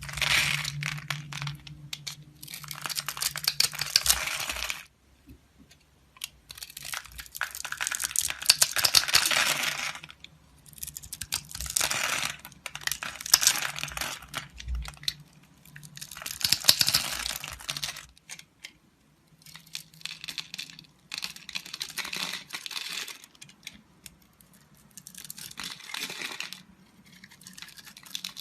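A blade cutting and scraping through a bar of soap in a series of crisp, crackly strokes, each lasting a second or two, with short pauses between. The strokes grow softer in the last third.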